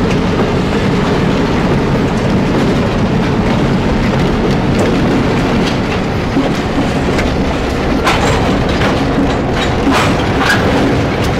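Freight train rolling slowly through a rail yard: steady rumble of the cars with steel wheels clacking over rail joints, and a run of sharper clacks about eight seconds in.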